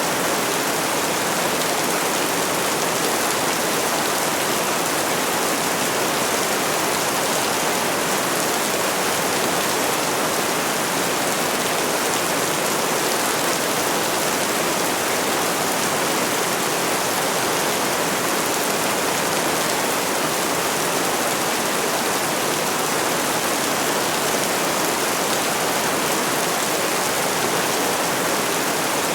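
Steady rain falling: an even hiss that does not change, with no thunder or single loud drops.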